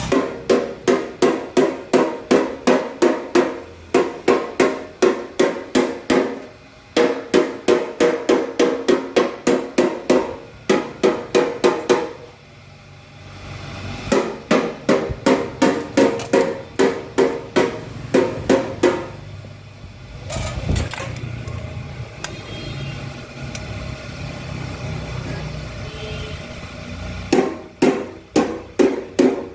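Hammer blows on metal, repeated at about three a second, each one ringing, in runs of several seconds with short pauses. Between about 20 and 27 s the blows stop and a steadier, lower noise is heard instead.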